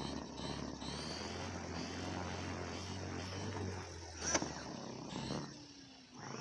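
WLToys V950 RC helicopter's electric motor and rotor running with a steady hum, with a sharp knock about four seconds in; the hum falls away after about five seconds.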